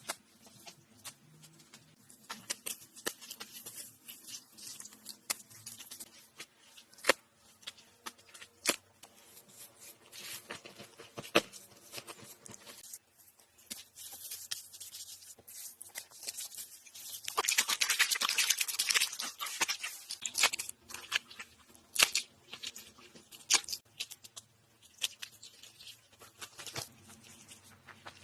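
Hand-work sounds of hut building: scattered sharp clicks and knocks, with a stretch of rustling, tearing noise about two-thirds of the way in.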